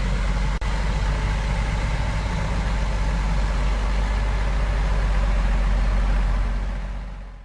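Heavy diesel engine running steadily with a deep low rumble, briefly cutting out about half a second in and fading away over the last second.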